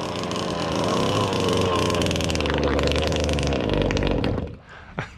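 Zenoah two-stroke gas engine of an RC speed boat running steadily at speed, then cutting off or falling away suddenly about four and a half seconds in.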